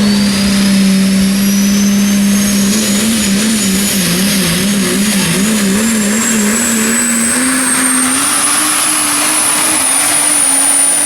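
Super stock diesel 4x4 truck under full load pulling the sled: the engine note holds steady, wavers for a few seconds in the middle, then steps up in pitch, while a high turbocharger whistle climbs steadily throughout.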